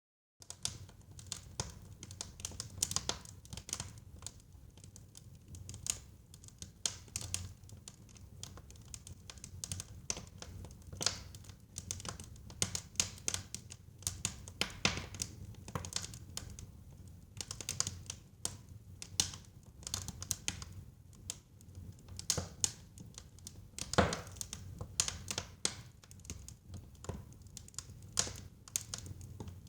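Wood fire crackling in a fireplace: irregular sharp pops and snaps of burning logs over a steady low rumble of the flames, with the loudest pop about 24 seconds in.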